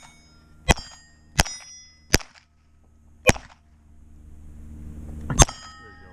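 Five pistol shots at uneven spacing: three in quick succession, then two more with longer gaps. Several shots are followed by a short metallic ring of steel target plates being hit.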